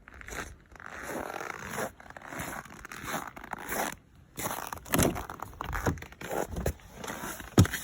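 Footsteps crunching on cold, dry snow, with clothing rustling, in a run of irregular crunches and a few sharper knocks.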